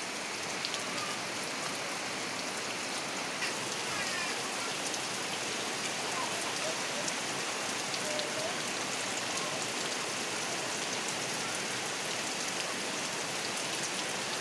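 Steady rain falling, with a few faint short chirps here and there.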